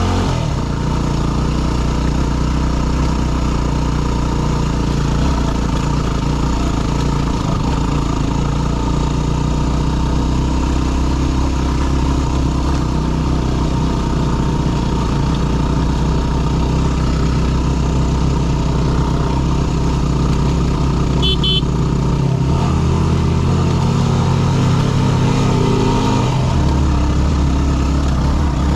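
Yamaha WR250R's single-cylinder four-stroke engine running at low trail speed, its note shifting with the throttle a couple of times near the end.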